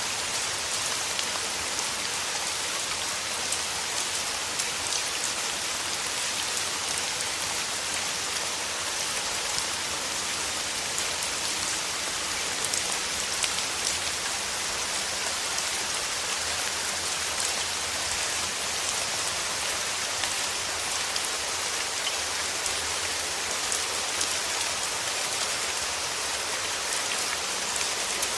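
Steady, even rain falling on a surface: a dense hiss with many small drop ticks through it.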